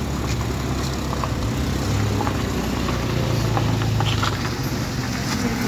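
A heavy engine runs steadily with a low drone, growing a little louder about two seconds in and easing off near the end, with a few faint clicks and rattles over it.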